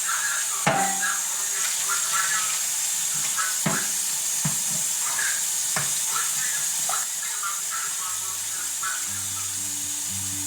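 Kitchen tap running as raw chicken strips are rinsed, with a steady hiss of water and a few knocks from handling the dish. Background music plays under it, with steady low notes coming in near the end.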